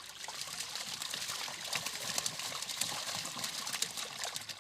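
Water trickling and splashing, with a steady patter of many small splashes.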